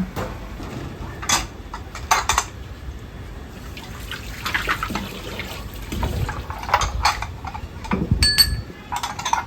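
Kitchen work in a ramen shop: metal pots and utensils knocking and clinking, with water splashing. A single metallic clink rings out a little past the middle.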